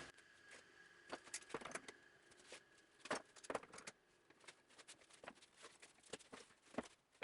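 Faint, irregular clicks and light taps from tools and plywood parts being handled, coming in uneven clusters.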